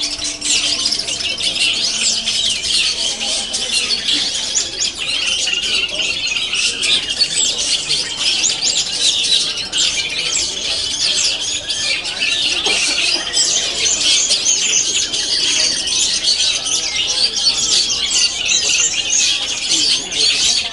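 Many long-tailed shrikes calling and singing at once: a dense, unbroken chatter of short, high, harsh calls.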